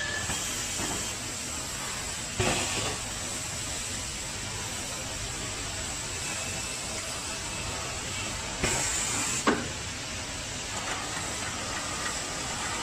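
Electric water heater outer shell forming line running, a steady machinery noise with two short hisses, the longer one near the middle ending in a sharp knock.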